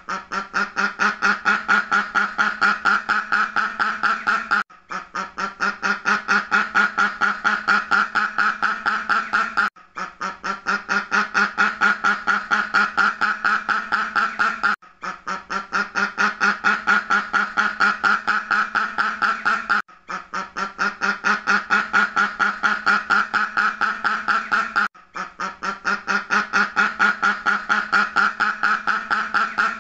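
Duck quacking in a rapid, nonstop series of several quacks a second, as a sound-effect loop that repeats about every five seconds with a brief break between repeats.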